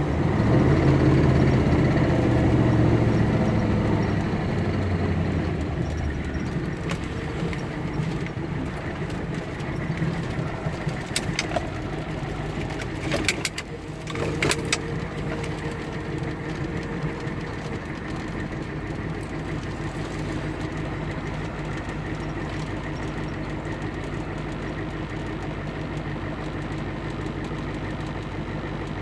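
Turbocharged car engine running. It is louder at first and settles over the first few seconds to a steady idle, with a few sharp clicks near the middle. The owner suspects a bad turbo.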